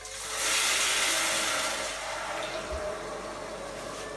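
Water poured into a pan of rice frying in hot oil, hissing loudly as it hits the oil and then slowly dying down.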